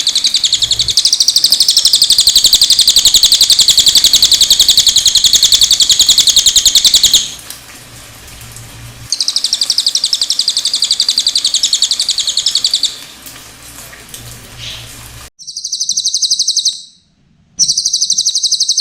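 Cililin songbird singing long, very rapid, high-pitched trills in several bouts separated by short pauses, with faint water noise in the gaps.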